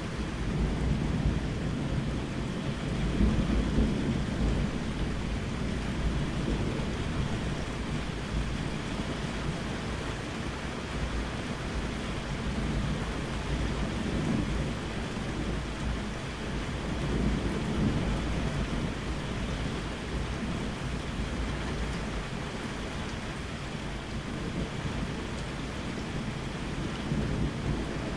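Steady rain with low, rolling thunder rumbling underneath, swelling and fading several times.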